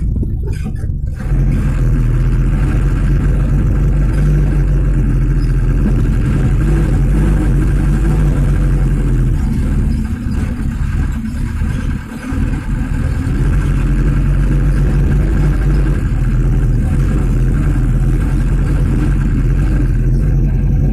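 Mitsubishi Canter truck's diesel engine running steadily under load while driving. The engine note dips briefly twice midway.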